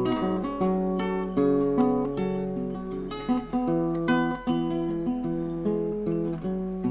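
Music: an instrumental break played on a plucked acoustic guitar, single picked notes a few a second, each ringing on over the next.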